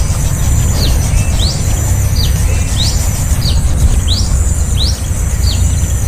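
A small bird giving a run of short, high chirps, about one a second and some rising while others fall, over a steady low rumble.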